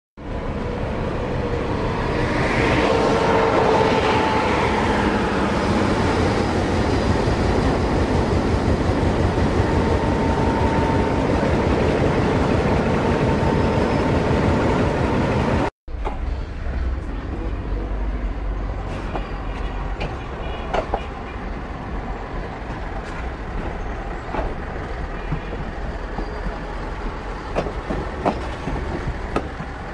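PeruRail diesel-hauled train running on the rails: a loud, steady rumble and rattle of wheels on track, with a brief rising and falling whine a few seconds in. After a sudden cut about halfway it is quieter, with scattered sharp clicks of wheels over rail joints and points as the train rolls slowly through a station yard.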